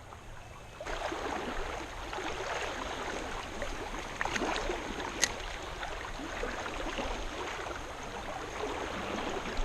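Creek water flowing steadily over rocks, with a single sharp click about five seconds in.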